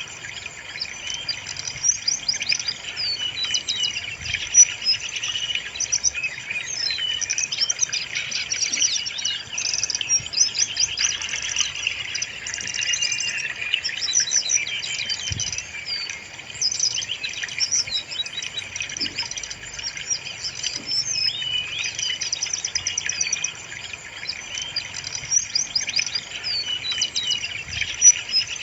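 Brown-chested jungle flycatcher singing: a dense, continuous stream of overlapping high chirps and quick trills.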